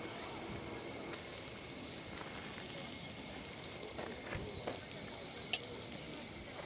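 Steady high-pitched chorus of insects such as crickets, with a few faint clicks and taps about four and five and a half seconds in.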